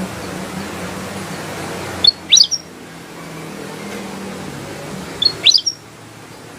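Ruby-throated bulbul (kutilang emas) singing two short, quick phrases of sweeping whistled notes about three seconds apart, over a steady background hiss.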